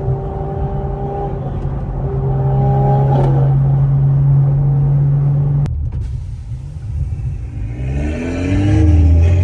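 Car engine, a turbocharged 3.0-litre B58 straight-six, running at a steady pitch under way. About six seconds in the sound breaks off suddenly, and near the end the engine revs up and falls back.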